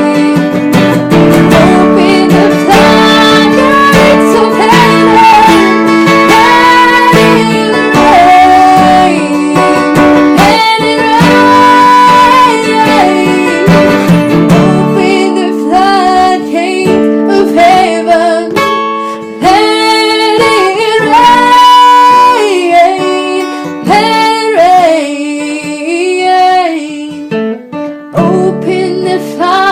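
A woman singing a song with acoustic guitar accompaniment, her voice holding and sliding between long notes over the guitar.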